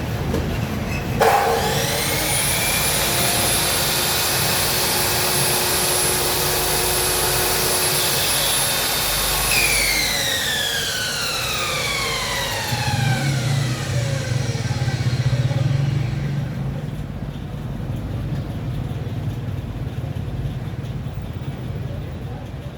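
Ferm MSM1040 mitre saw's electric motor switched on, spinning up to a steady high whine within about a second and running at even speed. Near the middle it is switched off and winds down over several seconds with falling pitch.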